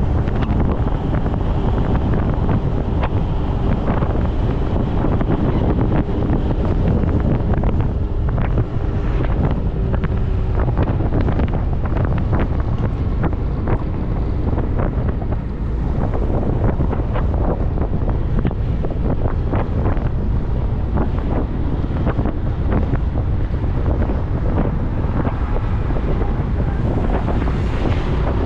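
Wind buffeting the microphone of a moving motorcycle, a loud steady rushing with constant gusts over the bike's running and road noise. A faint steady engine tone fades out about ten seconds in.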